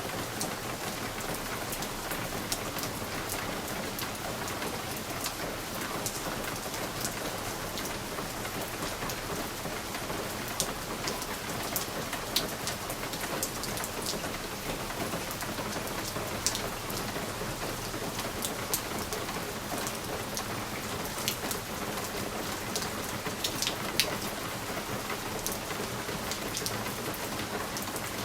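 Steady rain pattering on a window pane, with scattered sharp ticks of individual drops striking the glass.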